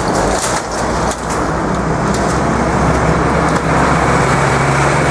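Road traffic at a level crossing: cars driving past, with a heavy vehicle's engine hum building toward the end.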